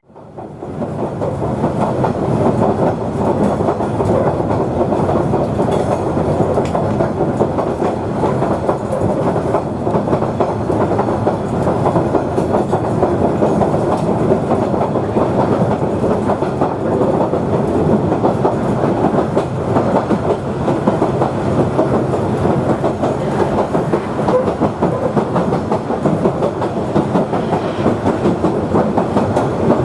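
Queensland Rail 2000 class railmotor running along the track: steady engine and wheel-on-rail noise.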